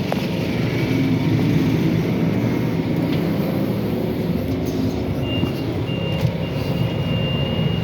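Scania Citywide 12LF CNG city bus heard from inside the cabin, its compressed-natural-gas engine running with a steady low rumble. About five seconds in, a thin high tone starts and holds with brief breaks.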